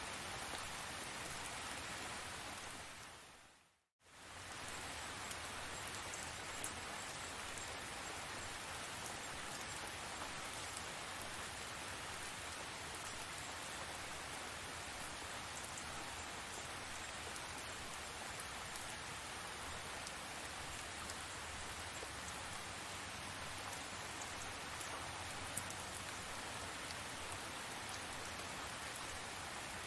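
Steady rain falling, with a few scattered drop ticks. About three to four seconds in, it fades down to silence and comes straight back up, like an edit point where the recording loops.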